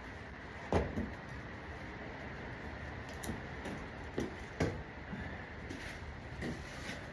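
Irregular scuffs and knocks of a hiker's feet and body against rock as he ducks and moves through a narrow crevice. A faint steady hiss lies underneath.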